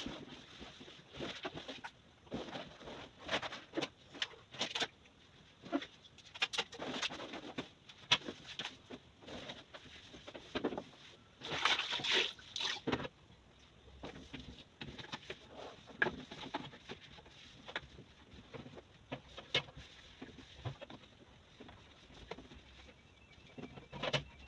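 Rinsing the inside of a fridge by hand with a wet cloth and a basin of water: irregular wet swishes, drips and light knocks against the fridge's plastic, with a longer swish about twelve seconds in.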